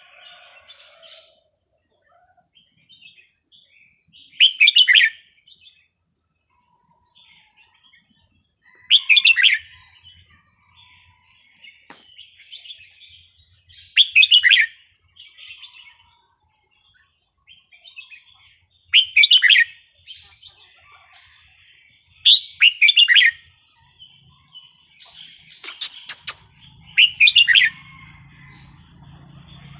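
Red-whiskered bulbul singing: short, loud warbled phrases repeated every four to five seconds, with softer chirps between them.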